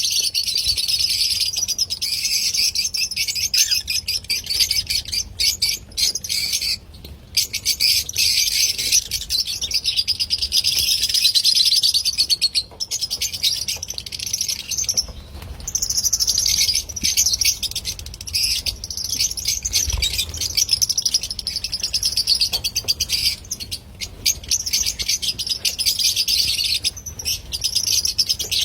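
Lovebirds chattering: a continuous stream of rapid, high-pitched chirps, broken by a few brief pauses.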